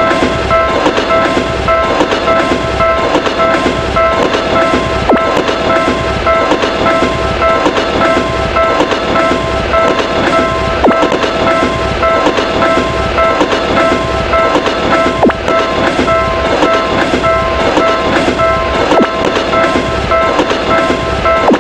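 Railroad crossing warning bell ringing steadily over a passing electric train, whose wheels make a rhythmic clickety-clack on the rail joints.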